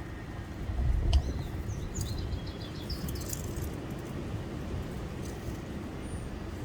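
A bird chirping: a quick run of high notes about two seconds in, over a steady low rumble, with a low thump and a sharp click just before.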